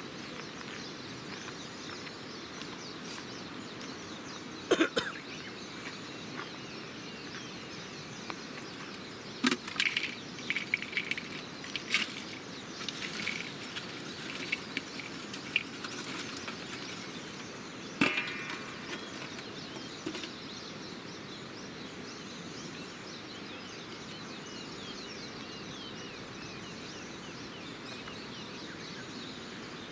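Wood campfire crackling, with irregular sharp pops and snaps, busiest in the first half, over a steady outdoor background hiss.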